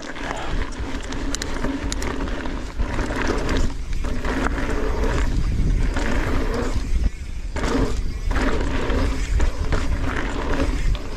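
Wind rushing over the microphone and knobby mountain-bike tyres rolling fast on dry, loose dirt, with short lulls about four and seven seconds in.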